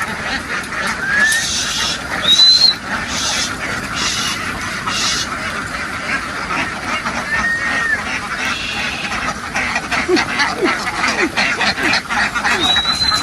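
A large flock of domestic ducks quacking in a dense, continuous chatter, with a few short high whistled notes over it.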